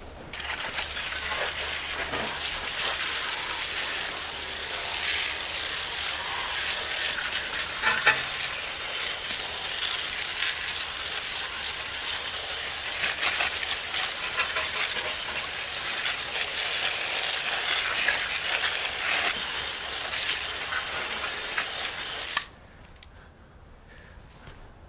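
Water spraying from a car-wash nozzle in a steady hiss, starting just after the beginning and cutting off suddenly about 22 seconds in.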